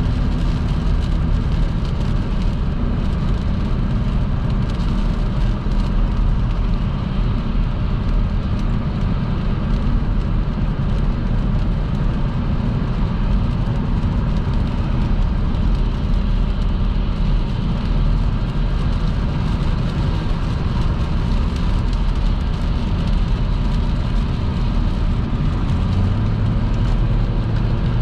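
Car driving at motorway speed in rain: a steady, even rush of tyres on the wet road with the engine running underneath.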